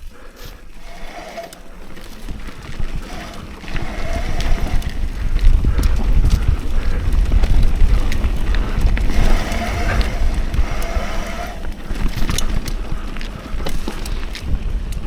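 Wind buffeting the microphone as a mountain bike rides down a trail, building into a heavy rumble about four seconds in, with frequent clicks and knocks from the bike rattling over the rough ground.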